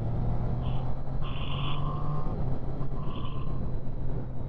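Motorcycle engine running steadily under way with wind and road noise, heard from inside a rider's helmet, with a few short higher-pitched blips in the first half.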